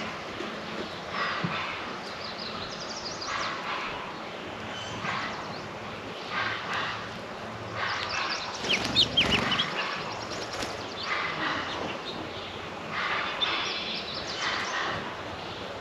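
Songbirds at a backyard feeder chirping and calling in short bursts over outdoor ambience, with a louder, noisier burst about nine seconds in.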